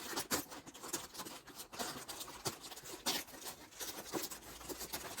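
Soft, scattered clicks, taps and rustles of small objects being handled close to the microphone.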